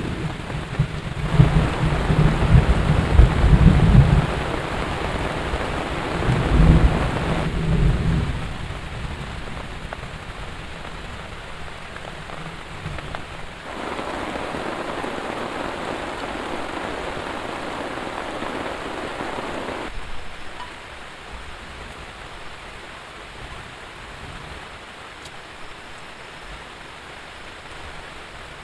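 Heavy rain falling steadily, with a long low rumble of thunder in the first several seconds. The rain's level steps up and down abruptly a few times.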